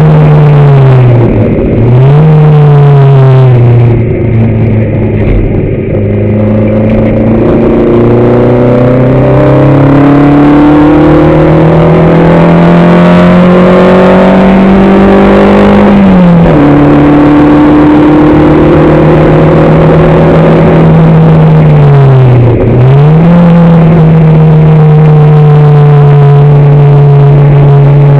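Race car engine at hard throttle, heard on board. Its note climbs steadily and drops sharply at each gear change, with brief dips and recoveries a few times.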